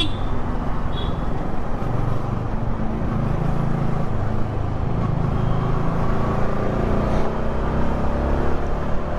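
Yamaha R15 V3's single-cylinder engine with its stock exhaust running on the move, under steady wind rush; the engine note shifts up and down a few times.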